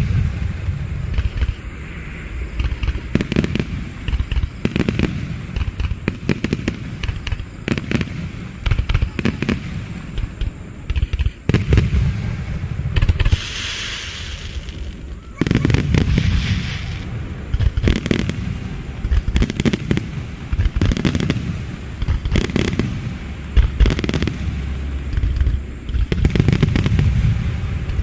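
Aerial fireworks shells bursting one after another at an irregular pace, each a sharp bang followed by a low booming rumble, with bouts of crackling between them.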